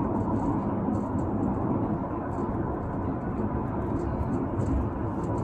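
Steady road and engine noise of a moving police patrol car, heard from inside the cabin.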